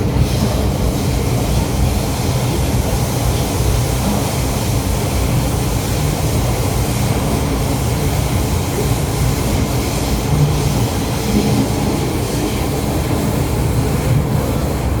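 MTR M-Train electric multiple unit in motion: a steady rumble of wheels on the track and running gear, continuous throughout.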